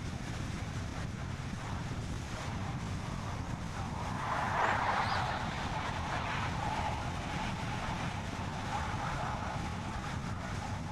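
Car driving along a road: steady low road and wind noise, with a louder rushing swell about four to five seconds in.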